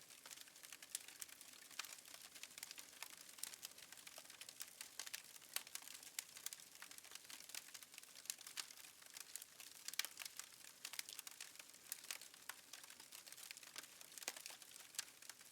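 Faint crackling of a wood fire in a fireplace: irregular small pops and snaps over a soft hiss.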